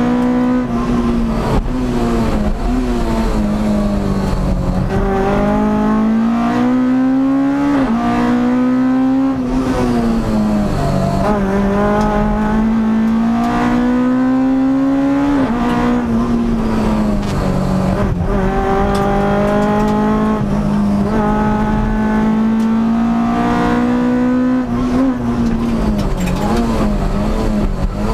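Rally car engine heard from inside the cockpit at full stage pace. The revs climb and drop repeatedly through gear changes and as it slows for bends.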